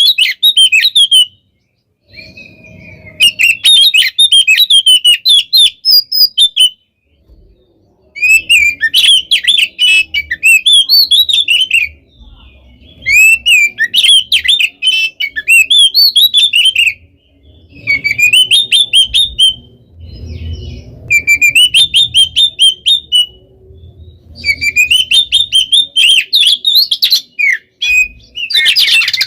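Oriental magpie-robin (kacer) singing loudly in fast, dense bursts of varied whistled and chattering notes. There are about seven bouts, each a few seconds long, separated by short pauses.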